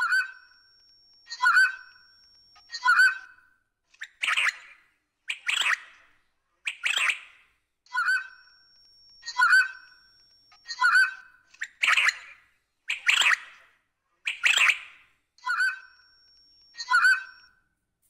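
A steady series of bird calls, about one every second and a half, with some calls louder and fuller than others.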